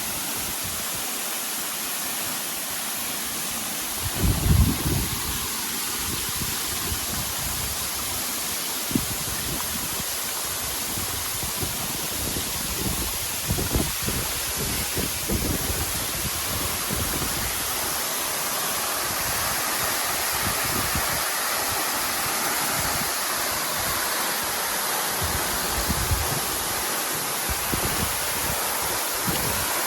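Steady rushing roar of the 33-metre Perun waterfall, water falling onto rock and pool, with occasional low thumps on the microphone, the loudest about four seconds in.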